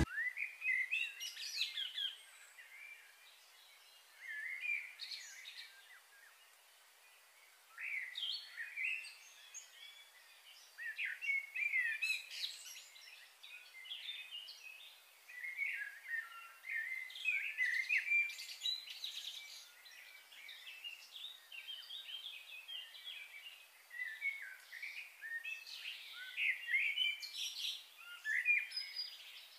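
Songbirds chirping and singing in short, quick phrases that come in clusters every few seconds, over a faint outdoor hiss.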